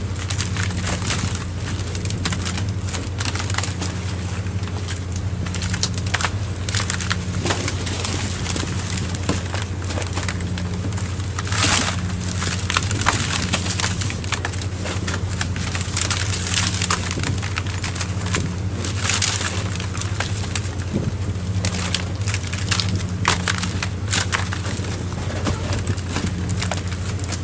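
Steady low drone of the fishing boat's engine, overlaid with frequent irregular crackling and clattering.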